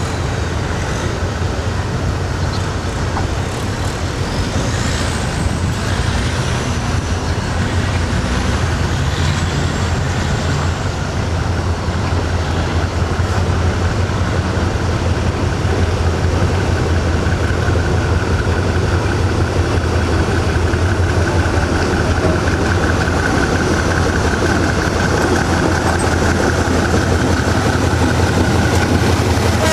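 Diesel locomotive engine running steadily with a deep hum, growing louder about twelve seconds in, with a thin high whine joining in about halfway.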